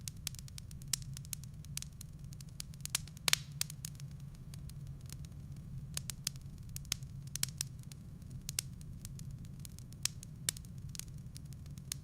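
Firewood burning in a fireplace, crackling with irregular sharp pops and snaps over a low steady rumble; the loudest pops come about three seconds in.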